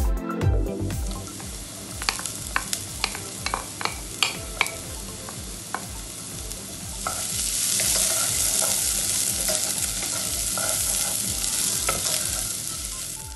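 Chopped onion and garlic frying in oil in a nonstick pot, with a wooden spoon scraping and tapping against the pan in a run of sharp clicks. About halfway through, after diced ginger goes in, the sizzle becomes a louder, steady hiss.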